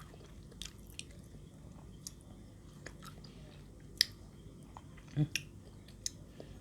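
A person chewing a mouthful of pounded santol salad, with scattered soft mouth clicks and crunches, one sharper click about four seconds in and a brief low hum from the eater about five seconds in.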